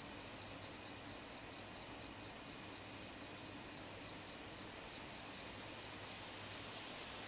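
Crickets trilling in a steady night chorus: one continuous high-pitched trill with a faint pulsing, unchanging throughout.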